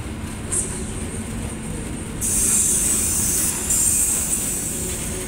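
KA Cikuray passenger train running with a steady low rumble; about two seconds in, a loud, high-pitched squeal from the wheels on the rails lasts about two and a half seconds, then fades.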